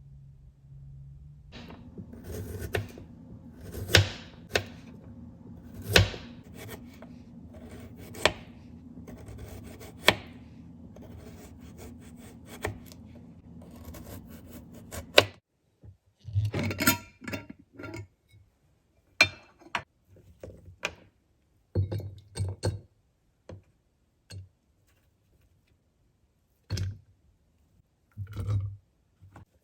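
Kitchen handling sounds: a string of sharp knocks and clinks, like dishes, glass and utensils being set down and moved. A steady low hum runs underneath and stops about halfway, after which only scattered thunks and bumps remain.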